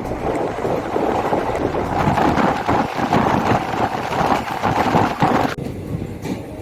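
Passenger train running along the track, with wind rushing over the microphone. The sound changes abruptly about five and a half seconds in.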